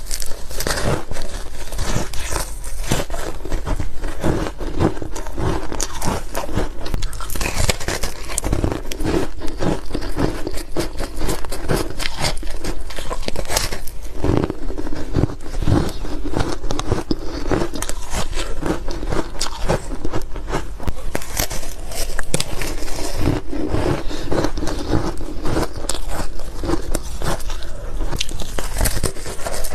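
Close-miked ice eating: a person biting and chewing powdery freezer frost and crisp ice, with dense irregular crunching and crackling throughout.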